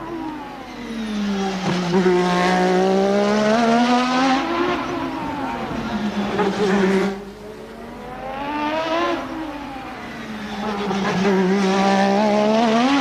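1988 Formula One race car engine at racing speed, its pitch swinging down and up several times as the car slows and accelerates. The level drops briefly about seven seconds in.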